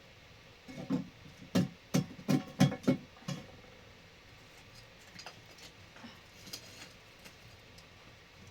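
A quick run of about seven sharp knocks, each with a short hollow ring, over a couple of seconds, followed by faint scattered clicks and taps.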